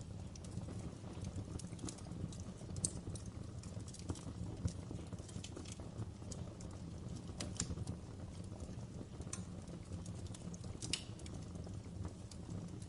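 Fireplace fire crackling: irregular sharp pops and snaps over a steady low rumble of burning.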